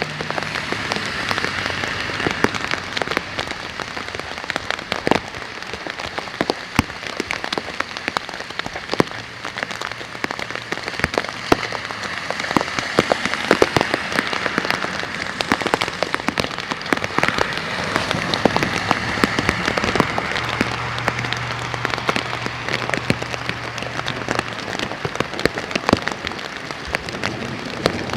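Heavy rain falling steadily, with many sharp taps of drops landing close by over the even hiss. A faint low hum comes in twice and fades.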